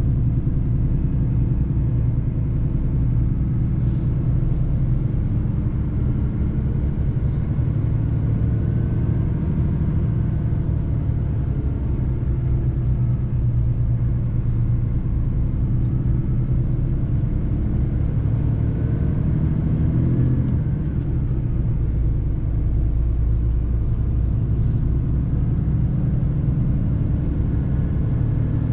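Mercedes-Benz truck driving on the road: steady low engine rumble and road noise, the engine note rising and falling gently.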